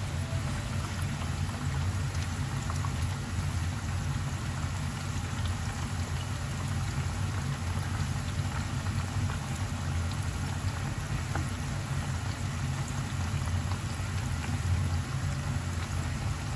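Breaded chicken breast strips deep-frying in a pan of hot oil: a steady sizzle with fine crackles and pops, over a steady low hum.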